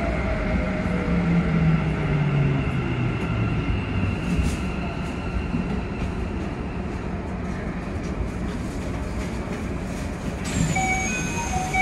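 Keikyu 1000-series train running with its Mitsubishi VVVF inverter whining, the whine falling in pitch over the first few seconds as the train slows, over steady running noise. About ten seconds in, a high-pitched tone starts, with several short electronic tones under it.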